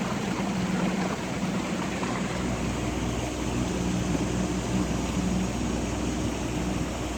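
Small boat's motor running steadily under way, a continuous hum with a few held tones.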